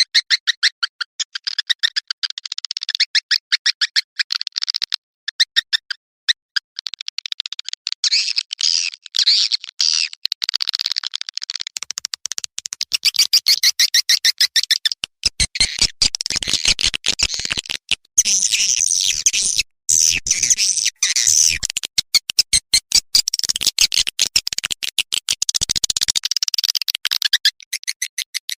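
Swiftlet call-sound recording: rapid trains of high twittering chirps and clicks, the lure sound played in swiftlet houses to draw the birds in to roost and nest. About halfway, a denser run of fast, even clicks joins in.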